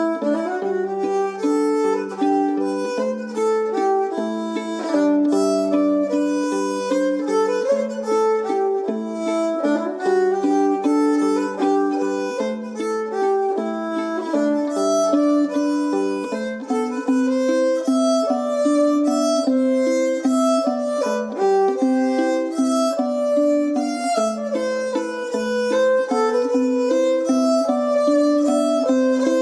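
Fiddle playing a melody of quick, short notes, in Irish traditional music.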